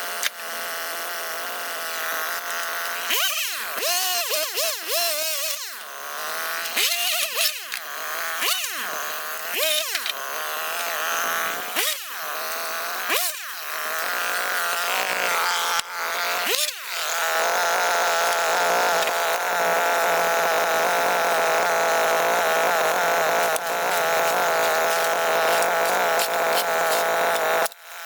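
Small two-stroke engine of a handheld power tool, its speed dropping and recovering again and again for the first half, then running steadily at high speed for the last ten seconds or so.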